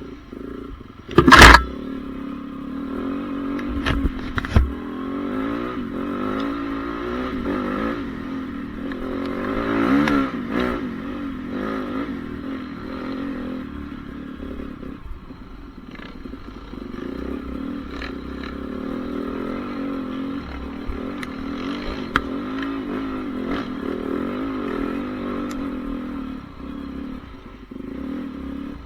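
Honda CRF450R motocross bike's single-cylinder four-stroke engine running continuously, its pitch rising and falling with the throttle and loudest about ten seconds in. A sharp, very loud thump comes about a second and a half in, and two smaller knocks follow around four seconds.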